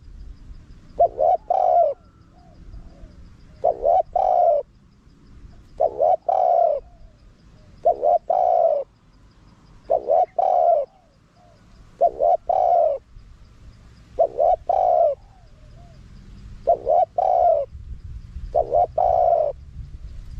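A spotted dove cooing. It calls a short phrase of two or three coos, about nine times over, roughly every two seconds.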